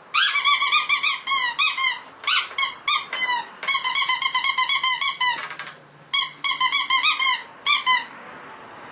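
Cavalier King Charles spaniel puppy squeals: quick, high-pitched cries coming in several runs with short pauses, stopping about eight seconds in.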